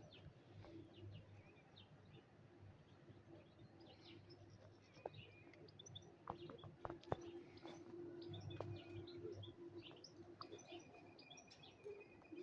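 Faint birdsong outdoors in spring: many small birds chirping and twittering in short high notes throughout. A low steady hum sits underneath, strongest in the middle, with a few sharp clicks about five to seven seconds in.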